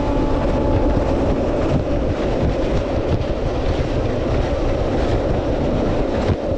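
Indian Railways passenger train coach running at speed over a river bridge, heard at the open coach door: a steady, dense noise of wheels on rail.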